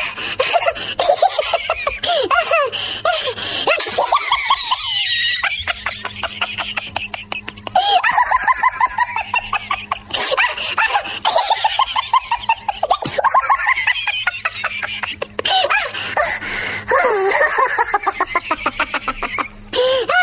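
Human laughter in several long bouts of rapid, pulsing ha-ha-ha, with short pauses between the bouts.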